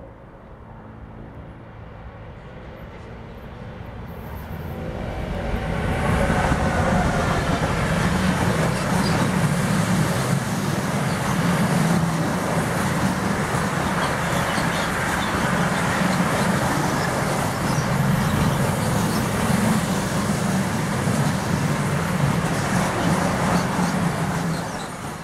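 An electric locomotive hauls a rolling-highway freight train, lorries carried on low-floor wagons, past at speed. The rumble builds over the first few seconds as it approaches, then holds loud and steady with a low drone under the wheel and rail noise. It falls away sharply at the very end as the last wagon passes.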